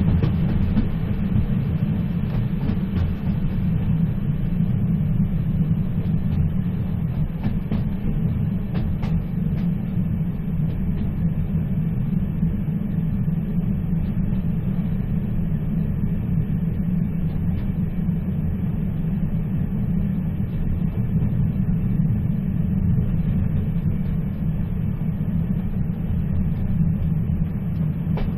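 Moving train running steadily: a continuous low rumble with a fainter hiss above it, even throughout.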